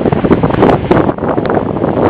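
Loud, gusty wind buffeting the microphone, with scattered crackles.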